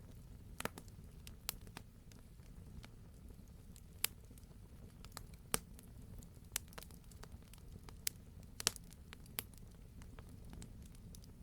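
Wood fire burning in a fireplace: irregular sharp crackles and pops, a few louder snaps among many small ticks, over a low steady rumble of the flames.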